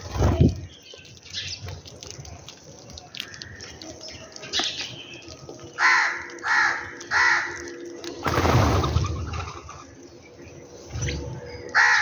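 Harsh bird calls, three in quick succession a little past halfway and two more at the very end, over scattered short chirps of house sparrows feeding. A low thump comes just after the start, and a brief rushing noise about two-thirds through.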